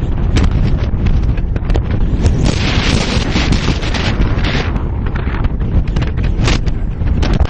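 Strong wind blowing across the microphone: a loud, steady low rumble with many crackles and pops.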